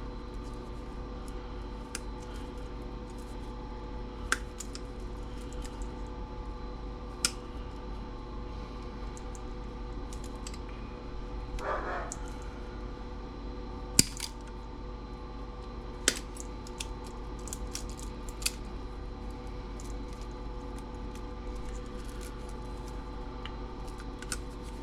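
Wire cutters snipping through wires and zip ties while a stereo's wiring is pulled out: scattered sharp clicks and snips, the loudest about halfway through, with a short rustle just before it, over a steady low hum.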